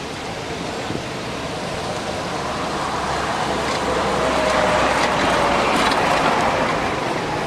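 A motor vehicle passing by: a rush of noise that builds to its loudest about five seconds in and then eases, with a faint engine tone that drops slightly in pitch as it goes past.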